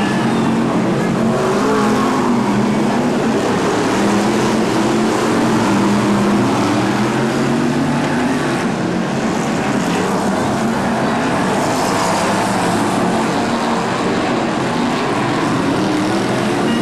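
Several BriscaF1 stock cars' Chevrolet V8 engines racing round a short oval, revving and easing off in turn, blending into one continuous din.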